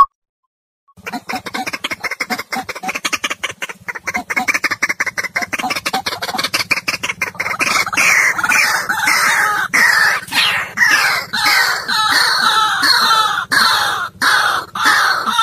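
White-breasted waterhen calling. About a second in, a fast run of clicking notes starts and builds, and from about halfway it turns into loud, harsh, falling calls repeated about twice a second.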